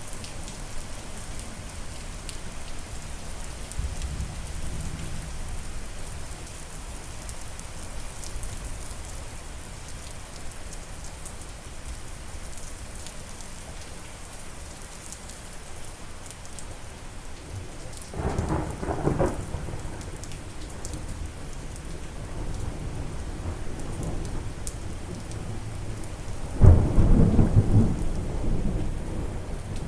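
Steady rain falling, with a rumble of thunder a little past halfway and a louder thunderclap with a sudden onset near the end that rolls on for a few seconds.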